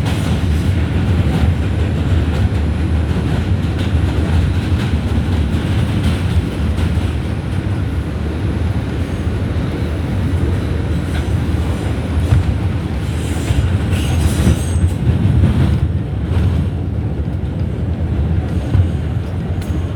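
R142 subway train running between stations: a steady rumble of wheels on rail, with a brief burst of higher metallic wheel noise about two thirds of the way through.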